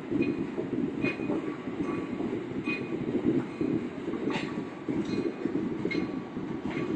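Freight train rolling across a railroad bridge: a steady rumble of wheels on rail, with a click and a short metallic ring from the wheels about once a second.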